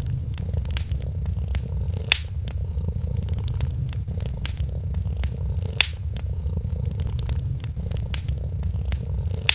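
Cat purring steadily, with a wood fire crackling over it in scattered sharp pops. Three louder pops stand out: about two seconds in, near six seconds, and near the end.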